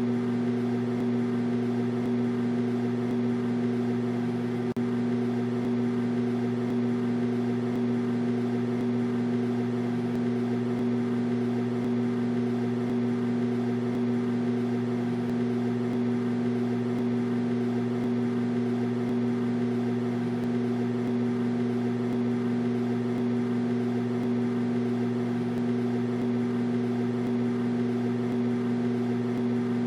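Microwave oven running: a steady, unchanging electrical hum with a low drone and two higher tones above it.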